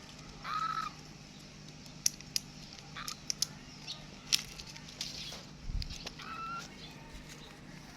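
Two short, high-pitched animal calls, one near the start and one about six seconds in, with a few sharp clicks and taps between them.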